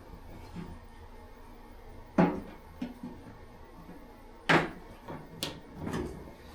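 A few separate knocks and clunks of items being moved and set down on a shop workbench, the loudest about two seconds in and about halfway through.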